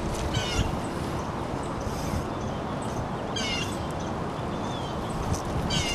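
A bird calling three times, each a short, quick run of high chirping notes, over a steady background rush.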